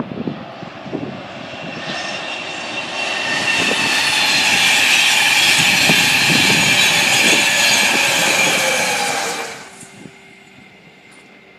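Express passenger train passing at speed: a rush of wheel-on-rail noise that builds over a few seconds, holds loud with a steady high ringing, then drops away abruptly about nine and a half seconds in.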